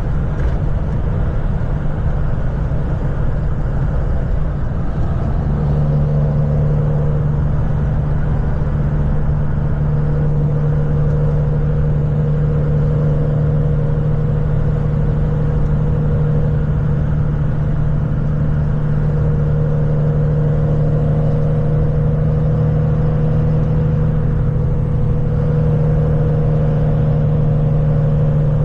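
Engine and road noise heard from inside a moving vehicle at a steady cruise. A steady low hum sets in about five seconds in and holds.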